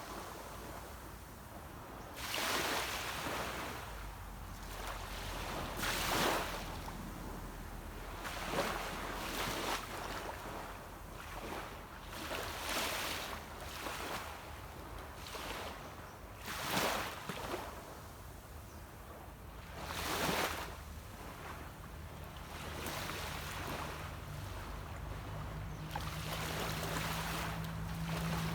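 Small sea waves breaking and washing onto a beach, one swell of rushing surf every three to four seconds. From about two-thirds of the way in, a distant boat engine's steady low hum rises under the waves and grows louder toward the end.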